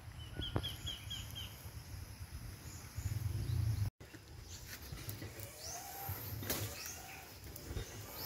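Small bird calling: a quick run of about five short chirps in the first second, then a few thin calls later on. Under it is a low rumble on the microphone that swells shortly before the middle and cuts out briefly.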